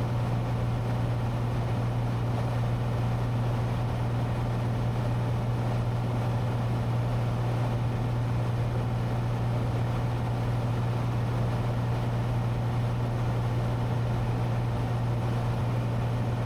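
Steady in-cabin drone of a Cessna 182T's Lycoming IO-540 six-cylinder engine and propeller in flight, an even low hum with no change in pitch or power.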